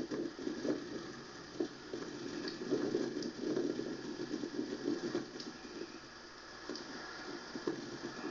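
Rain falling at the start of a thunderstorm: a steady, wavering rushing noise with a few faint ticks.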